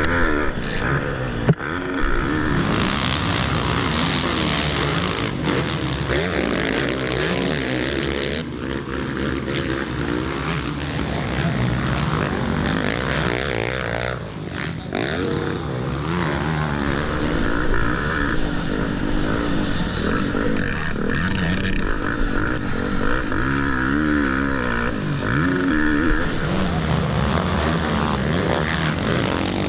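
Motocross bike engine racing on a dirt track, its revs rising and falling over and over as the throttle is worked through the corners and straights. There is one sharp knock about a second and a half in.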